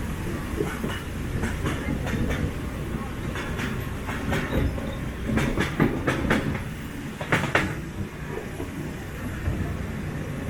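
Miniature park train running along its track: a steady low rumble with groups of sharp clicks and clacks as the wheels pass over rail joints, the loudest of them in the middle of the stretch.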